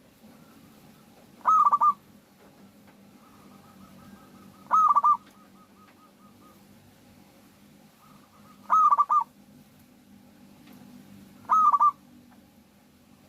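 Zebra dove (perkutut) cooing: four short calls, each a quick run of notes, spaced a few seconds apart, with a fainter run of repeated notes at the same pitch between them.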